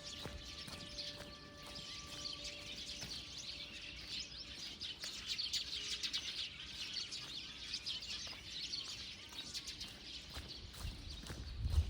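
Small birds chirping and twittering, many quick high chirps overlapping. A faint steady hum fades out in the first few seconds, and a low thump comes near the end.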